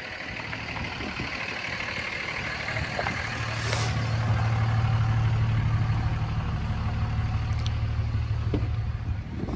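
Truck engine running steadily, growing louder about three seconds in and then holding.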